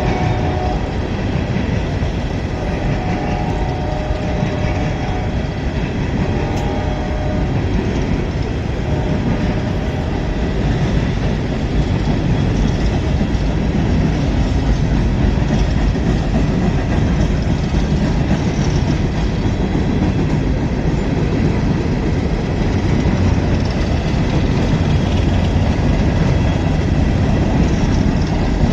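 Train passing close by: a steady rumble of wheels on rails that grows slightly louder partway through. The locomotive horn sounds a few times in the first nine seconds or so.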